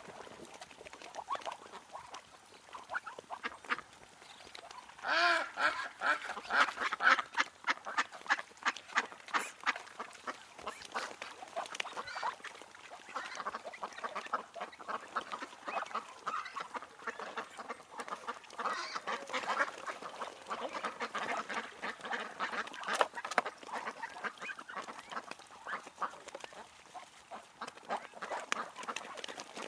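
Ducks quacking: a rapid, continual run of short calls, loudest from about five seconds in.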